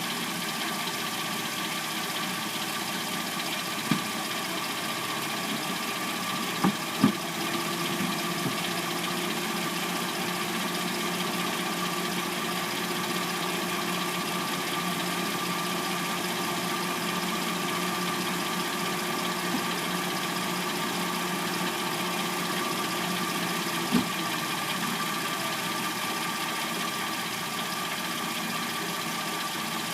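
Hyundai Sonata replacement engine idling steadily once warmed up, with a few isolated sharp clicks about 4, 7 and 24 seconds in.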